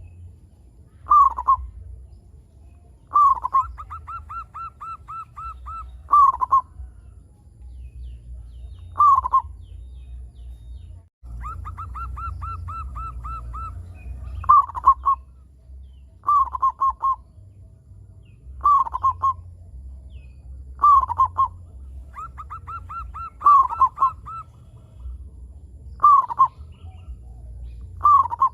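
Zebra dove (local Indonesian perkutut) singing over and over: short falling coos every two to three seconds, three times led in by a fast run of staccato notes lasting about two seconds. A low steady hum runs underneath.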